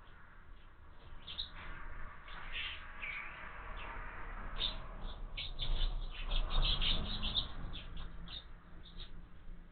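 House sparrows chirping in short repeated chirps, thickening into a rapid run about six to seven and a half seconds in, with a low rumble underneath at the busiest point.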